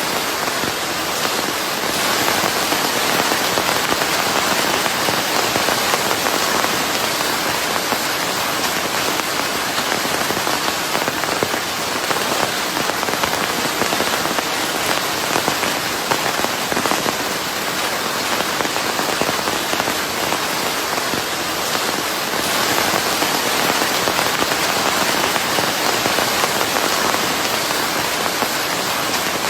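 Steady rain falling on a surface, a dense even patter with gentle swells in intensity, blended with white noise.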